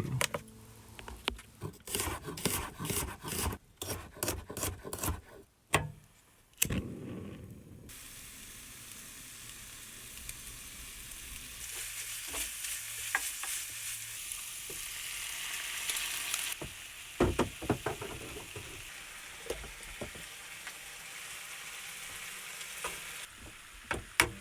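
Cooking in a pan: a utensil knocking and scraping against the pan for the first several seconds, then a steady sizzle of food frying, with occasional clinks.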